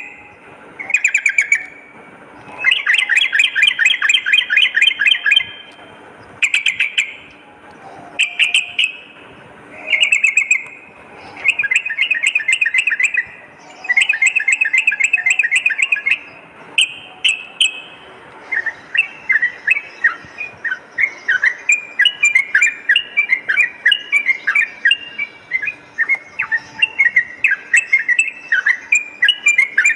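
Yellow-vented bulbul (trucukan) singing: short bubbly, chattering phrases with brief gaps, then from about two-thirds of the way in a continuous rapid run of quick notes, the fast rolling song that keepers call 'ropel'.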